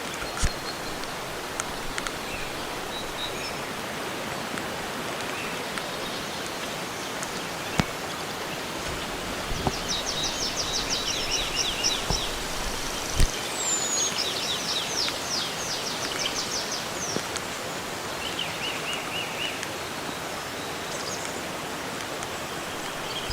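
Steady hiss of running water or rain in a rainforest, with a few sharp drips or taps. From about ten seconds in, a bird sings rapid series of high, quickly falling notes for several seconds, followed by a shorter, lower trill.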